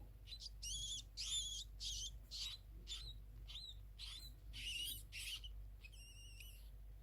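A small animal squeaking: a run of short, high-pitched squeaks, about two a second, some wavering in pitch.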